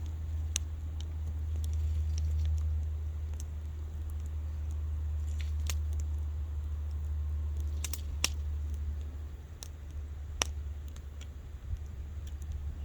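Wood fire crackling, with sharp pops at irregular intervals, a few louder ones about eight and ten seconds in, over a steady low rumble.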